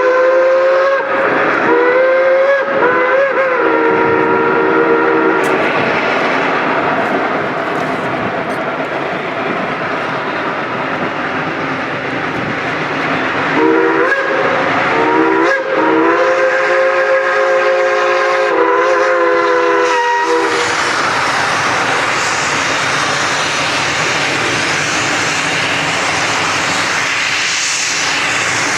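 Steam locomotive whistle with several notes sounding together, blown in two spells of long blasts broken by short gaps, near the start and again about halfway through, over a steady rushing noise from the working train.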